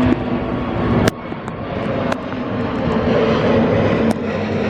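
Jet airliner engines running at an airport, a dense rushing noise that drops abruptly about a second in and then builds steadily. A few sharp clicks sound over it.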